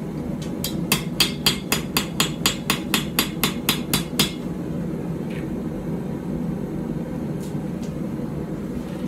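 Blacksmith's hand hammer striking a hot steel puukko blade on an anvil, a quick even run of ringing blows at about four a second that stops about four seconds in. The blows are straightening the blade, taking the wave out of it.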